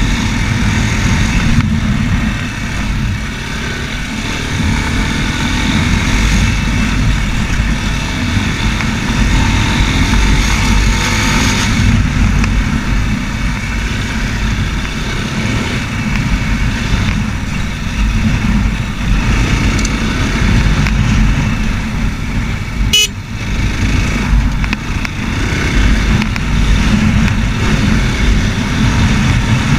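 Racer Panther 300 enduro motorcycle's engine running steadily under way, a continuous low rumble. A single sharp click sounds about three quarters of the way through.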